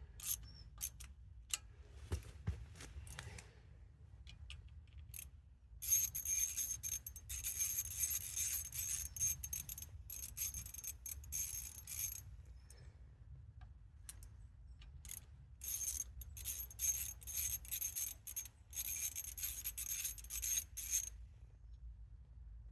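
Ratchet spanner clicking rapidly in two long spells, about six seconds each, as bolts are run in, with a few separate metallic clinks of tools before the first spell.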